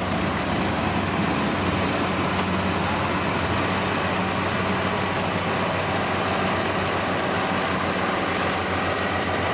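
Large rice-hauling tractor's engine running steadily with a low, even hum.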